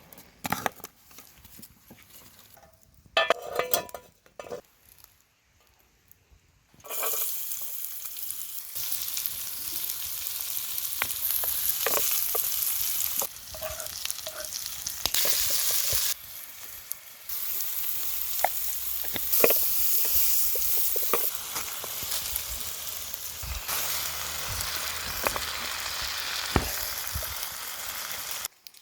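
Food frying in hot oil, a steady sizzle with many sharp popping crackles, starting abruptly about seven seconds in. Before it, a brief loud rattle of knocks.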